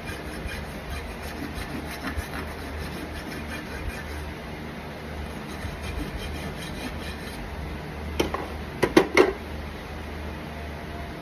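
Farrier's rasp filing a horse's hoof in repeated even strokes, stopping after about seven seconds, followed by a few sharp knocks about eight to nine seconds in.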